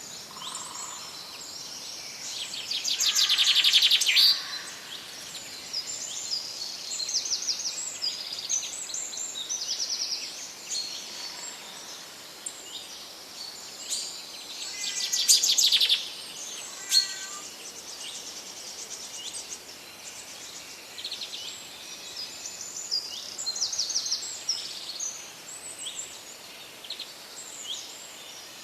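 Several songbirds chirping and singing together over a faint steady background hiss. Two louder, fast trilling songs stand out, one about three seconds in and one about halfway through.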